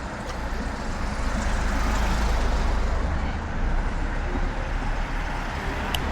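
Road traffic ambience: a steady wash of street noise with a heavy low rumble that swells about two seconds in and eases off.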